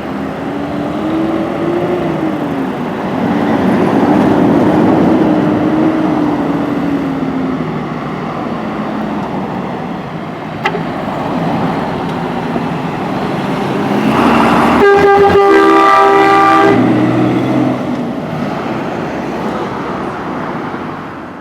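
FVR truck on the move, its engine note rising and falling over steady road and engine noise, with a long air-horn blast about fifteen seconds in that lasts nearly two seconds.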